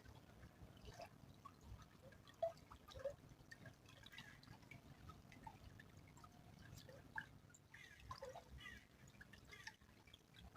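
Faint small stream trickling, with irregular little plinks and drips of water.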